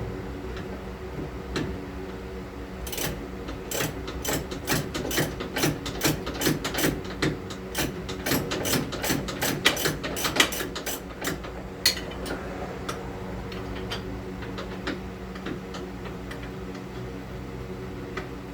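A run of sharp, irregular metallic clicks and clinks from hand tools, most likely a ratchet and socket being worked on a suspension bolt. The clicks start a few seconds in and stop about two-thirds of the way through, over a steady hum.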